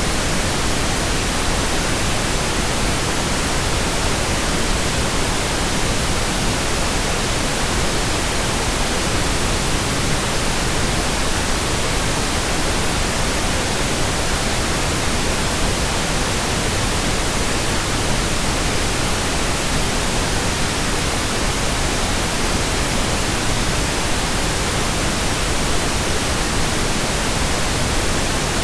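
Steady white noise: an even, unbroken hiss across the whole range of pitch, with no change in level.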